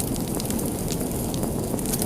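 Wood fire burning in a fireplace: a steady low rush of flames with a few faint crackles.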